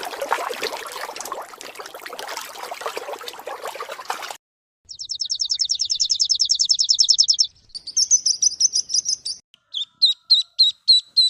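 A small bird singing: a fast, high trill of rapid repeated notes, a second shorter and higher trill, then a string of sharp chip notes about three a second. It is preceded by about four seconds of dense hissing, crackling noise that stops abruptly.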